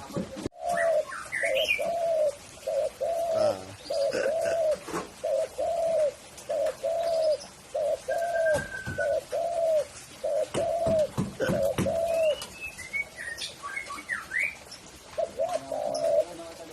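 Spotted dove (tekukur) cooing: a long, even run of short arched coos, a little faster than one a second, that stops about twelve seconds in and starts again briefly near the end. Smaller birds chirp higher up in the background.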